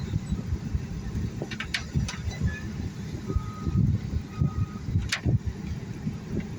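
Low, uneven rumbling noise outdoors, with a few brief high chirps from a large feeding flock of birds.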